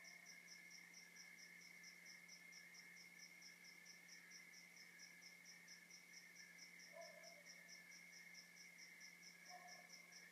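Faint night chorus of crickets: a steady high trill under a fast, even chirping of about four to five pulses a second. Two short, low calls come in near the end.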